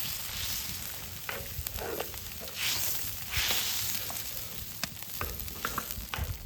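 Food sizzling and frying on a cast-iron cauldron lid over a wood fire while being stirred. The hiss swells twice near the middle, with scattered clicks of a utensil against the lid.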